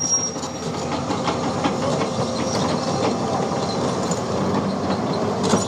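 Hyundai excavator working: steady engine and hydraulic noise, with many light metallic clicks and clanks and a few thin squeals.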